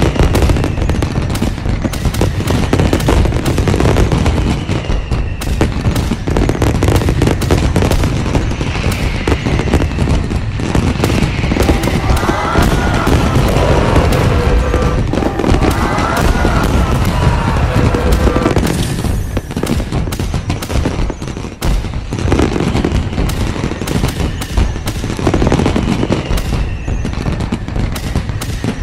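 Daytime fireworks display: a continuous, dense barrage of rapid bangs and crackling from aerial shells going off.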